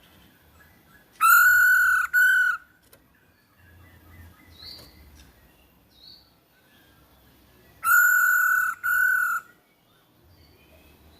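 Masked laughingthrush (Hong Kong poksay) giving two loud calls, each a long steady note followed at once by a shorter one. There are a couple of faint short chirps between the calls.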